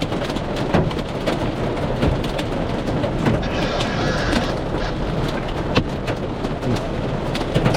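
Heavy rain and hail hitting the vehicle: a dense rush of rain on the car with many sharp small impacts.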